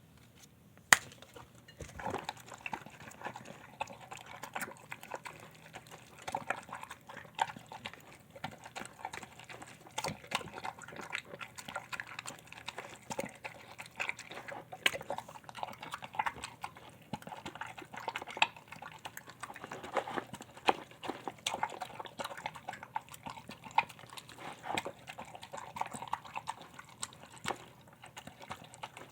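A shar-pei–pit bull mix dog eating a wet meal from a bowl: continuous irregular wet chewing, smacking and lapping, with many small clicks. A single sharp knock comes about a second in, just before the eating starts.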